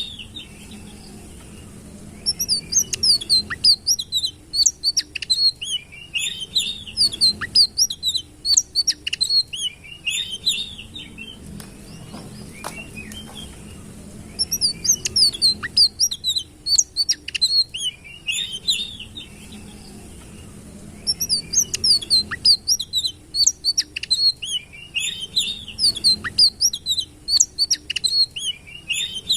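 Sitrun songbird singing in three long bouts of quick, high chirps and trills, separated by pauses of a few seconds, over a faint steady low hum.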